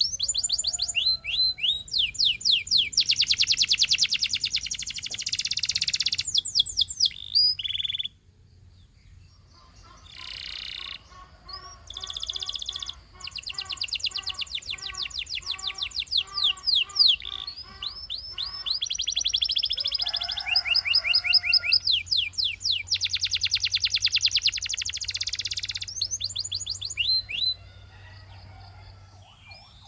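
Domestic canary singing: rapid high trills and runs of repeated notes in separate phrases, with a short break about eight seconds in.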